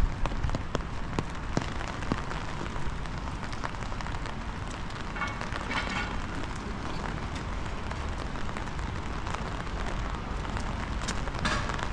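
Steady rain falling on the street, with many small drop ticks and a low wind rumble on the microphone.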